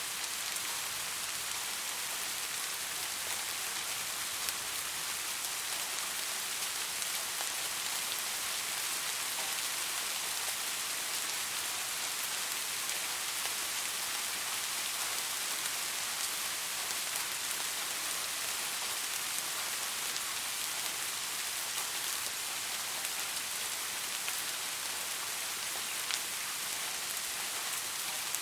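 Steady rain falling: an even, continuous hiss with scattered faint drop ticks.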